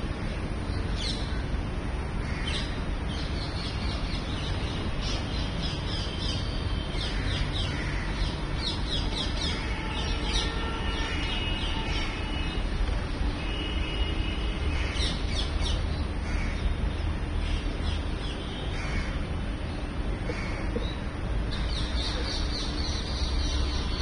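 Many birds chirping and calling, short repeated notes throughout, over a steady low rumble.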